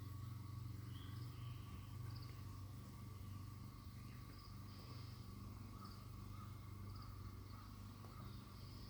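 Faint insect chirping: a thin steady trill with scattered short chirps, over a low steady hum.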